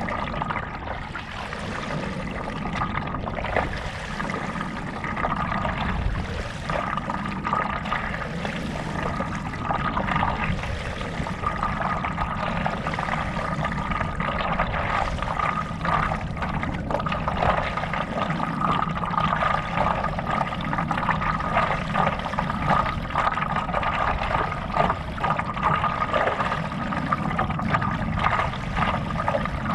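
Water sloshing and trickling close around a stand-up paddleboard as it moves across a lake, with a continuous dense patter of small splashes.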